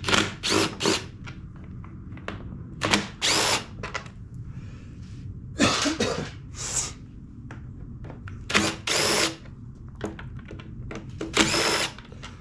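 Short bursts of a handheld power tool run again and again, each a second or less, about six times, over a steady low hum.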